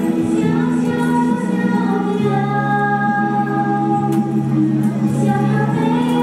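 Youth choir singing a pop song with backing music, holding long notes that change chord a few times.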